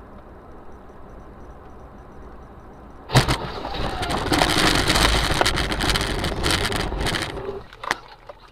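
Dashcam recording of a car crash: steady road noise, then a sudden loud bang about three seconds in, followed by about four seconds of loud noise that stops abruptly, and a sharp knock near the end.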